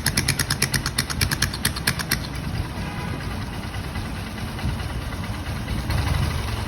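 An engine running while being adjusted: a rhythmic clatter of about five or six ticks a second stops about two seconds in, leaving a smoother, steady running sound.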